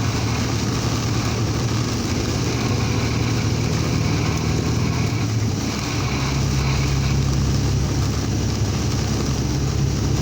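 Vehicle engine droning steadily while driving in heavy rain, heard from inside the cab, with a constant wash of rain and road noise. The engine note shifts about six seconds in.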